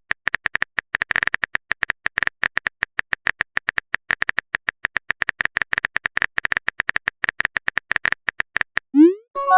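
Rapid, irregular clicks of a phone keyboard typing sound effect, several a second. Near the end comes a quick rising swoosh, then a short multi-tone notification chime.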